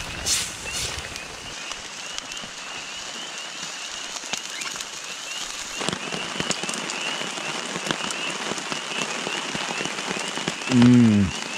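Steady rain falling, with many fine drop ticks, and a steady series of short high chirps in the background. Near the end comes the loudest sound, a person's short falling hum.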